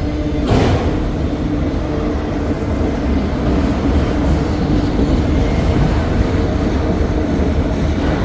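CSX manifest freight cars rolling slowly past with a steady low rumble, and a single sharp clunk about half a second in.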